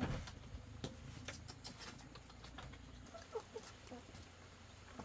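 Scattered light taps and rustling, then a few faint short clucks from poultry about three seconds in.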